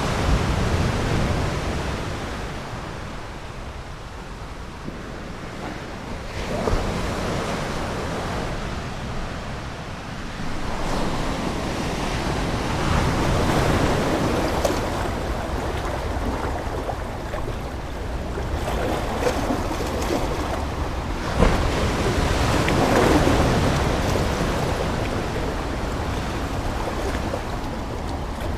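Ocean waves breaking and washing up a shore, the surf swelling and receding every few seconds.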